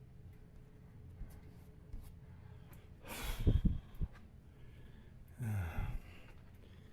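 A man breathing out heavily twice: a sharp puff of breath about three seconds in, and a sigh with a falling voice near the end, with a click between them.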